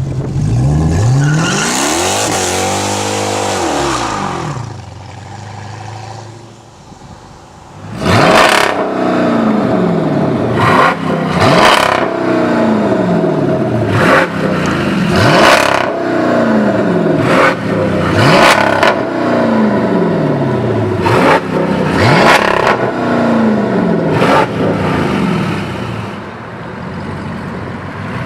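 Dodge Challenger SRT-8's V8 through a Mopar exhaust being revved. It sweeps up and back down near the start and then runs quieter for a few seconds. About eight seconds in comes a long run of about a dozen sharp throttle blips, each snapping up and dropping back slowly, before it settles lower near the end.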